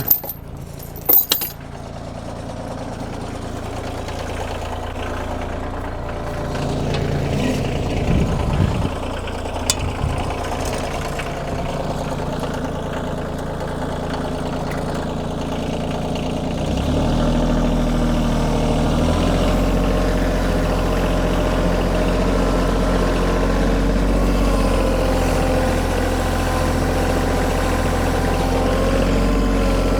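Kioti tractor's diesel engine running steadily, growing louder and deeper about halfway through.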